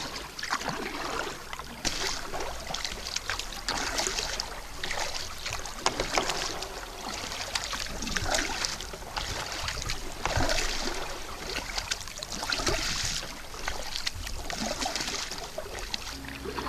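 Kayak paddle strokes: the blades dip and pull through the water, with a splash and trickle of dripping water about every two seconds.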